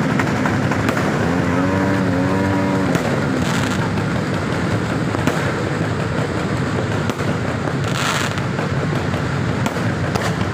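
Fireworks going off in a continuous din of crackling and bangs, with sharper bursts a few seconds in and again around the eight-second mark. A pitched sound rises and falls in the first few seconds.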